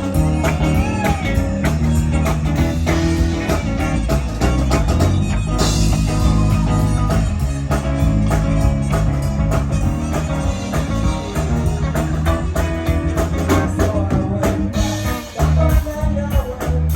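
Live rock band playing, with electric guitar and bass over drums and a voice singing at times.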